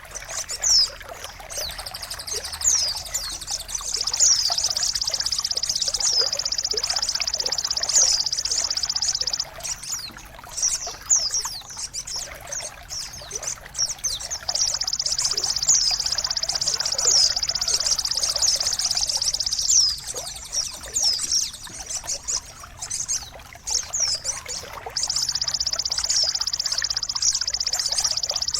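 Water trickling and splashing steadily under a high, very fast buzzing trill that runs for several seconds at a time, breaks off and starts again, with many short sweeping chirps from songbirds over it: a bird-tutoring (masteran) recording meant to set caged songbirds singing.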